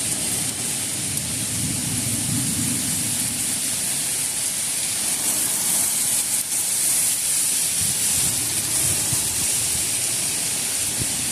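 Heavy thunderstorm rain pouring down in a dense, steady hiss, with a low, uneven rumble underneath that is strongest in the first few seconds.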